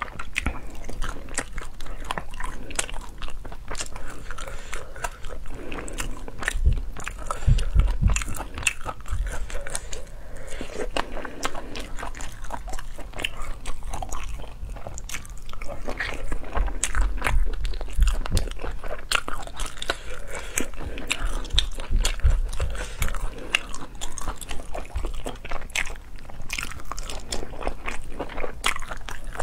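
Close-miked eating of spicy cooked sea snails: wet, crunchy chewing and biting with many quick clicks, and a few stretches of heavier low thumps partway through.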